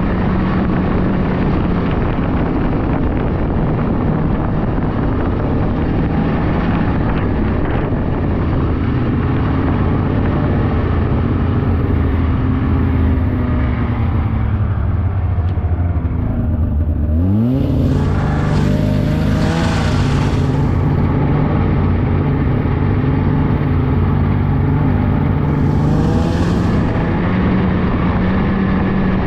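Polaris 600cc two-stroke snowmobile engine running under way. The engine note sinks slowly as the sled eases off, then rises quickly as the throttle is opened again a little past halfway, and holds steady after that.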